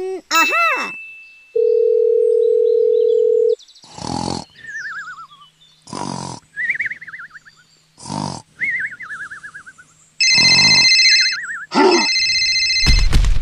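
Cartoon sound effects: a wobbling boing and a steady held tone, then three cartoon snores, each a short snort followed by a falling wavy whistle. Then a phone ringing, broken by a short angry grunt as the sleeper wakes, and the ringing goes on louder with a low rumble near the end.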